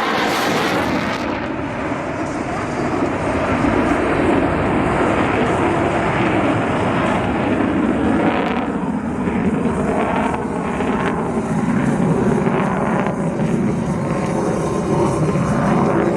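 Lockheed Martin F-35A Lightning II's single Pratt & Whitney F135 afterburning turbofan, loud and steady jet noise from the aircraft flying low overhead.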